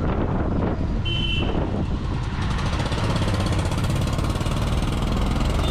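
Royal Enfield Continental GT 650's 648 cc parallel-twin engine and exhaust running under way, with a brief high-pitched beep about a second in. The sound grows fuller and brighter from about halfway through.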